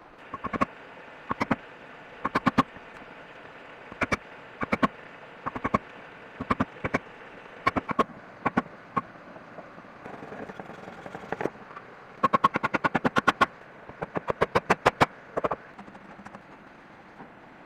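Sharp, ringing knocks of a tool striking bamboo, coming in twos and threes, then in two quick runs of about eight strikes each a little after halfway.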